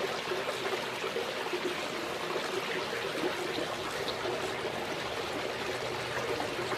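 Running water trickling steadily, with a faint low hum underneath.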